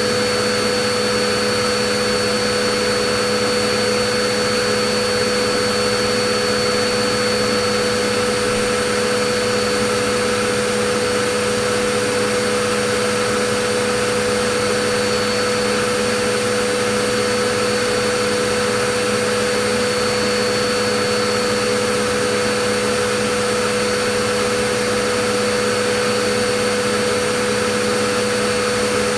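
Vacuum cleaner running continuously at a steady speed: an even rush of air with a constant motor whine over it, no change in pitch or level.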